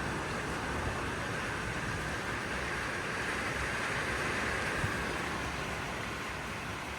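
Thunderstorm rain pouring steadily, a constant rushing hiss, with gusting wind rumbling on the microphone; it swells slightly a little past the middle.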